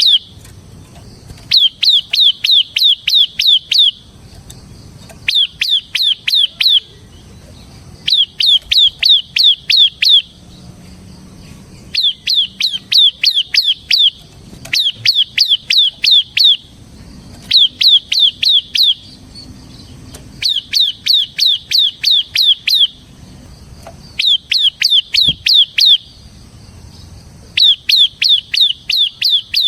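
Bar-winged prinia singing in full song: repeated phrases of sharp, quick chirping notes, about four a second, each phrase lasting two to three seconds with short pauses between.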